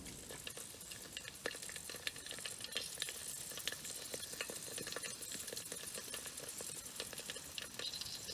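Faint sizzling of food cooking over a campfire, a steady hiss with many irregular small crackles and pops.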